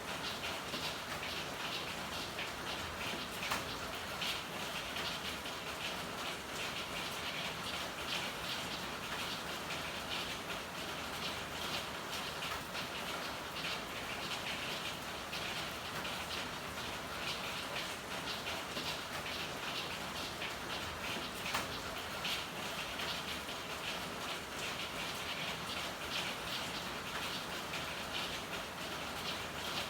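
Steady rain falling and pattering on hard surfaces, a dense even hiss of drops with scattered sharper drips, one a few seconds in and another about two-thirds through.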